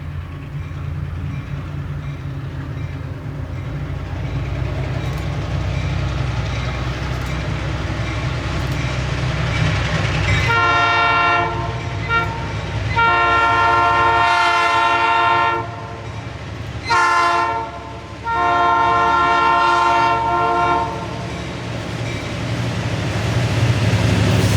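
Diesel locomotive passing, its engine rumbling low, then its multi-chime air horn sounding long, long, short, long: the grade-crossing signal. The engine rumble grows louder near the end as the train comes closer.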